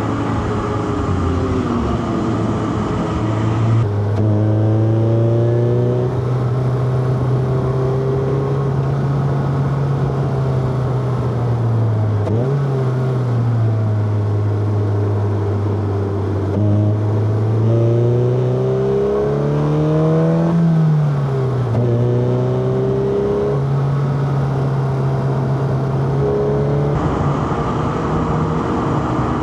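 Four-cylinder car engine under load, its pitch rising and falling again and again as it revs up, drops back and shifts gear through a run of bends.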